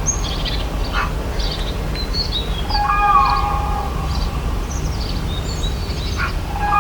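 Birds calling: quick high chirps and twitters throughout, and a longer, lower call with a bending note about three seconds in that comes again near the end, over a steady low rumble.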